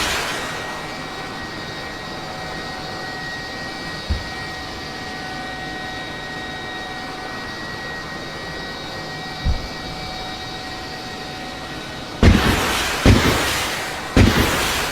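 Steady aircraft engine drone with a thin, even whine. Two soft low thumps come in the middle, then three loud sudden blasts near the end, each trailing off in a rumble like explosions.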